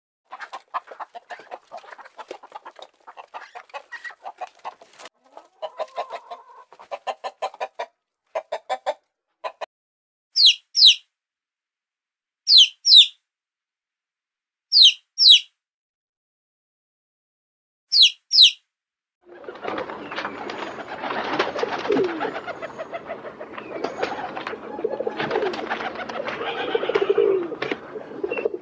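Birds calling: first runs of rapid, pulsed calls, then four pairs of short, high, falling calls, then from about two-thirds of the way in a dense chorus of many calls.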